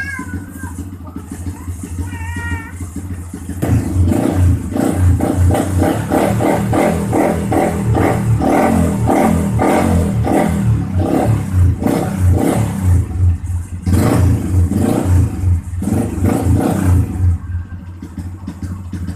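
Yamaha Xabre 150's single-cylinder four-stroke engine through a Daytona Short aftermarket exhaust on an R9 header. It idles at first, is revved repeatedly from about four seconds in, and eases off near the end.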